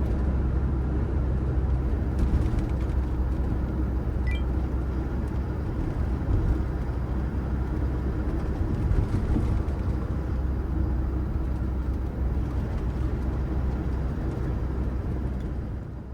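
Steady low rumble of a van on the move: engine and road noise, even throughout.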